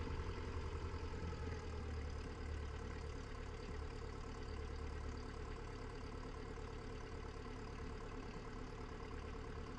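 Cessna 172's piston engine running steadily at low taxi power, a low, even drone with no change in speed.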